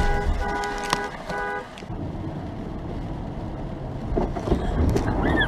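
Car horn honking in three short blasts over the first couple of seconds, then steady road noise of traffic.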